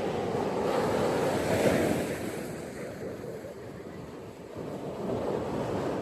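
Ocean waves breaking and washing up a beach, one wave swelling and falling away in the first half, the next building near the end, with wind on the microphone.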